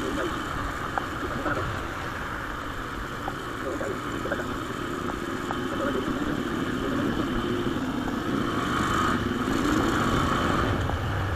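Motorcycle engine running while riding, with steady wind and road noise on the rider's microphone; the sound grows slightly louder toward the end.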